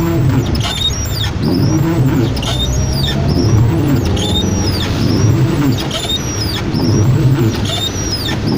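Car windshield wipers sweeping across wet glass, squeaking at a steady rhythm of about one stroke a second, over the steady hum of the car's engine and road noise.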